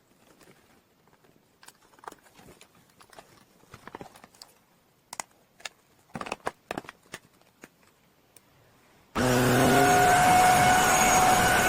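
Faint clicks and knocks of handling, then about nine seconds in the HYCHIKA handheld mattress vacuum switches on abruptly and runs steadily with a whining motor tone.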